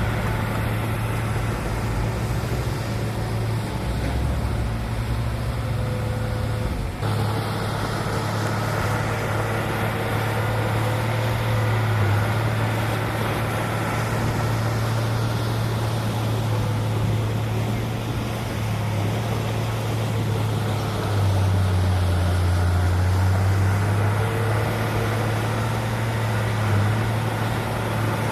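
Heavy diesel machinery engine running steadily, with a low hum that shifts in pitch now and then. There is a brief break about seven seconds in.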